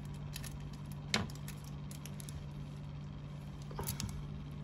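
A metal Zippo lighter being handled, giving a few light, sharp metallic clicks, the clearest about a second in and another near the end, over a steady low hum.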